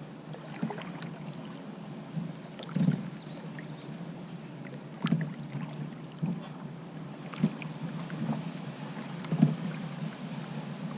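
Kayak being paddled: paddle strokes in the water with irregular dull knocks about once a second.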